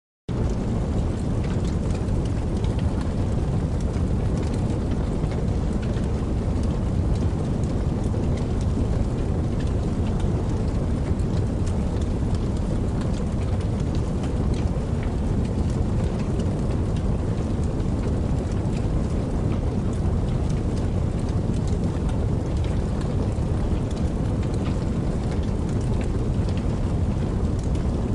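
Steady rainfall: a continuous hiss with a heavy low rumble and many small sharp drop ticks, starting abruptly right at the beginning.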